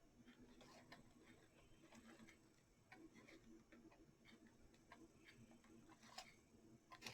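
Near silence with faint, light ticks and clicks scattered unevenly.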